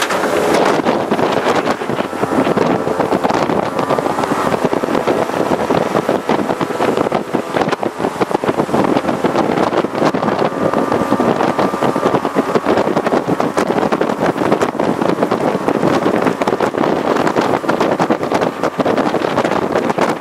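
Jet boat running at speed: a steady engine and jet drone under heavy wind buffeting on the microphone.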